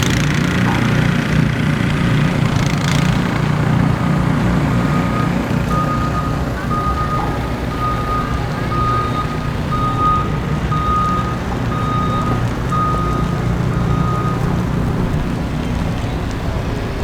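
A vehicle's reversing alarm beeping about once a second, starting a few seconds in and stopping near the end, over a steady low engine rumble.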